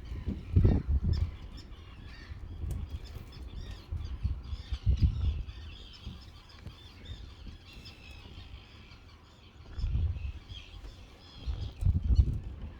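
Many birds calling at once in a steady, chattering chorus. Loud low gusts of wind buffet the microphone several times.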